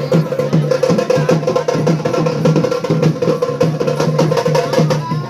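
Loud, fast rhythmic drumming music, many quick strokes over a steady pulse.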